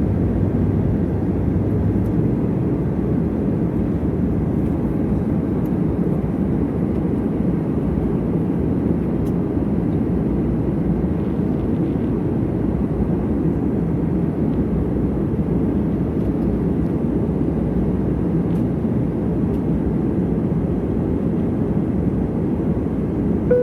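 A steady low rumble of vehicle running noise that holds even throughout, with no distinct events.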